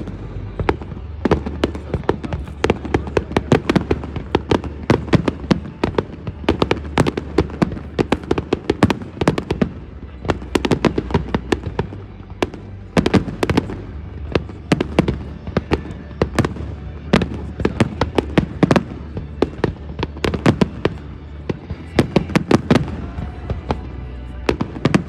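Fireworks finale: a rapid, continuous barrage of shell bursts, several sharp bangs a second over a steady low rumble.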